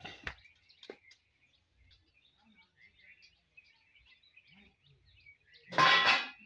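Faint chirping of small birds in the background, with a couple of soft knocks near the start. A loud, half-second sound with a clear pitch cuts in near the end.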